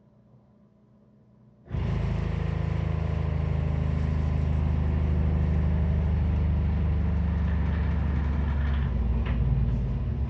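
A loud, low mechanical rumble with a steady hum starts abruptly about two seconds in and holds steady. It comes from an unidentified household machine that runs daily on a schedule, which the resident suspects is a water softener or filtration system back-flushing.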